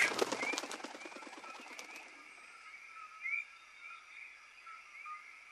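Forest birds chirping: short rising chirps repeated every half second or so over a faint hiss. A brief flurry of wingbeats fades out in the first half second.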